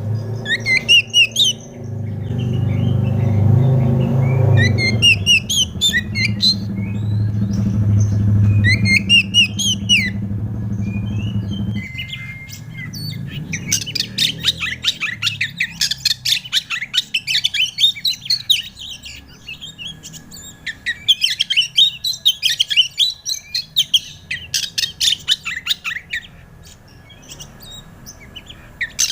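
Oriental magpie-robin singing: a few loud whistled phrases with rising sweeps, then, from about halfway through, a long run of fast, chattering notes. A low steady hum lies under the first phrases and stops abruptly about twelve seconds in.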